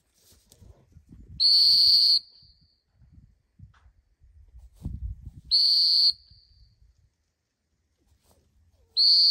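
Dog-training whistle blown in three single sharp blasts about four seconds apart, each under a second long. These are single stop blasts, used in retriever handling to stop the dog and make it sit for a direction.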